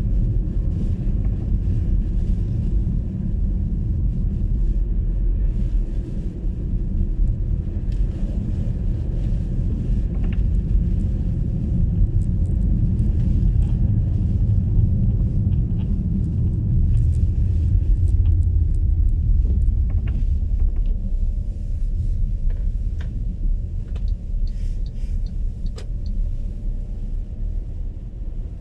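An MG ZS EV electric car driving on a snowy road, its tyres and the road giving a steady low rumble with no engine note. Scattered faint ticks and taps come through the second half.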